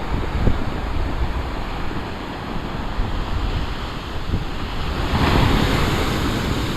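Large waves breaking and washing on the shore, with wind rumbling on the microphone. A big wave breaks about five seconds in, a louder rush of surf that then slowly fades.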